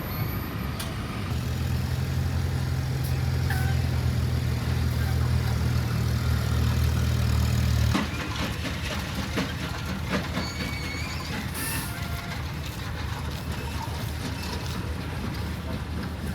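A low, steady engine hum that cuts off abruptly about halfway through, leaving an outdoor background with faint short squeaks or chirps.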